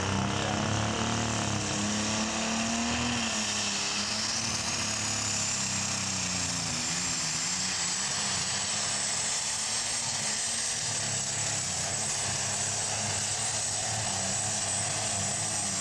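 Turbocharged super stock pulling tractor engine running flat out under load down the track. A high turbo whine climbs over the first few seconds and then holds steady, and the sound drops away abruptly right at the end, where a thump marks a pressure release somewhere under the hood.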